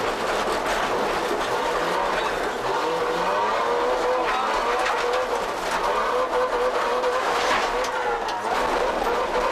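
Rally car being driven hard, its engine note rising and falling as it is revved, with tyre and skidding noise.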